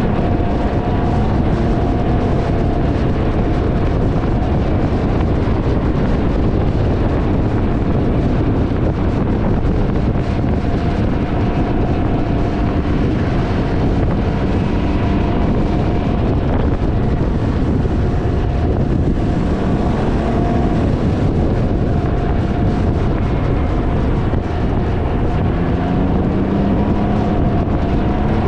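Heavy wind buffeting on the microphone over a Can-Am Ryker's engine running at road speed, its pitch rising as it accelerates about two-thirds of the way in and again near the end.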